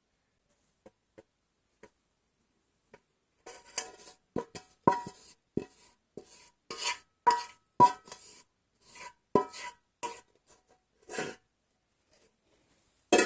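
Irregular scrapes and knocks of a utensil against a metal cooking pot (sufuria) as caramel is spread over popcorn, some strokes ringing briefly. Only faint ticks at first; the scraping starts a few seconds in and stops shortly before the end.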